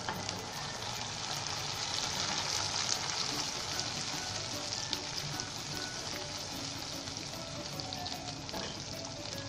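Onions and freshly added tomato paste sizzling steadily in hot oil in a frying pan, stirred with a spatula.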